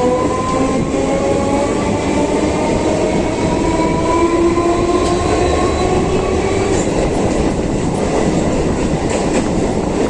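Teesta Torsa Express train running on the rails with a loud, steady rumble. Several tones rise slowly in pitch over the first few seconds, and a few faint clicks come near the end.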